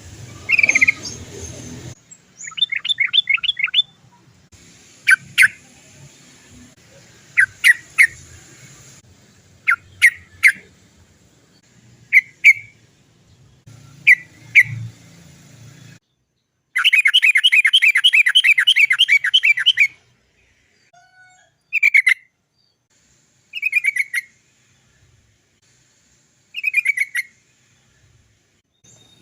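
Yellow-vented bulbul (trucukan) calling with short, sharp "cok" notes. Just past halfway comes a long, fast rolling trill of about three seconds, followed by a few more single calls.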